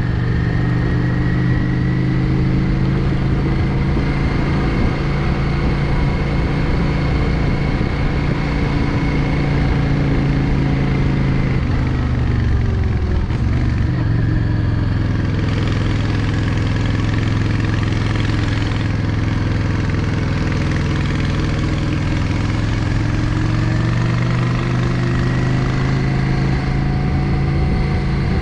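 Yamaha Drag Star 650's air-cooled V-twin running under way on the road. Its pitch drops and then climbs back about halfway through, then holds steady again.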